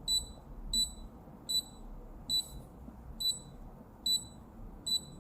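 De'Longhi coffee machine beeping: seven short, high beeps repeating evenly about every 0.8 seconds.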